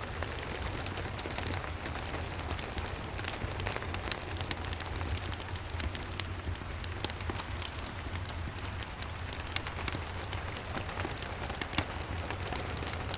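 Steady rain, with many sharp little crackles and ticks from a wood fire scattered through it and a steady low rumble underneath.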